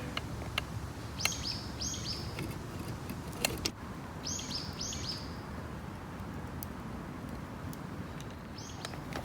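Small birds chirping outdoors: quick high chirps in groups of two or three, about a second in and again near the middle, with a single chirp near the end. Scattered sharp clicks and a steady hiss sit under them.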